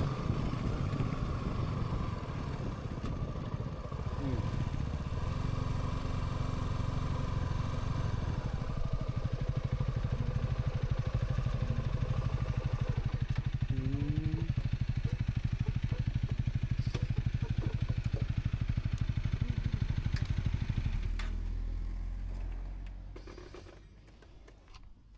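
Single-cylinder 250 cc motorcycle engine running at low speed with a rapid even pulse. About 21 s in it drops off and fades to quiet as the bike comes to a stop.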